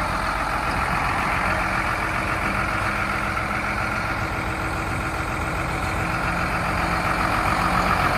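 A 2019 Hino 268 box truck's diesel engine running steadily, getting a little louder near the end.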